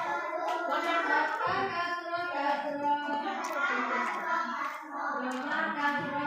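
A voice singing a melody, over or alongside music.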